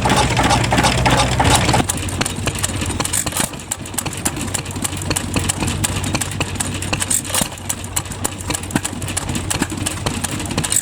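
Vintage stationary engines running at idle. A louder engine with a steady hum stops abruptly about two seconds in and gives way to a quieter engine with a rapid clatter of sharp clicks.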